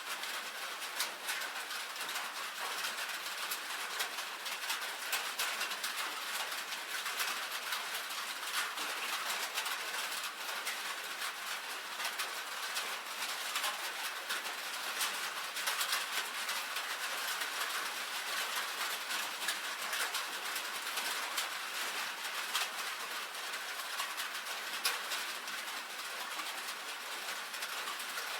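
Rain falling on a tin roof: a steady, dense patter of individual drops ticking on the metal.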